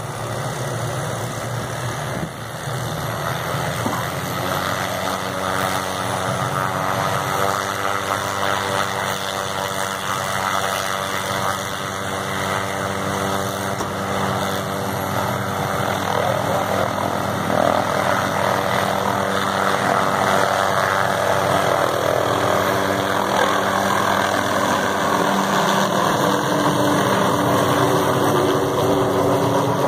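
An engine running steadily with an even, humming drone that grows gradually louder.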